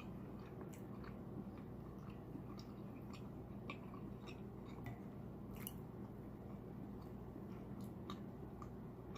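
Close-up wet chewing and lip smacking of a person eating buttery seafood, with irregular short clicks and smacks over a steady low hum.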